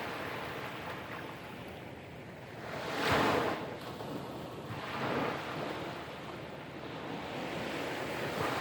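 Small waves breaking and washing onto a sandy beach, the loudest wave breaking about three seconds in and a smaller one about two seconds later, with light wind on the microphone.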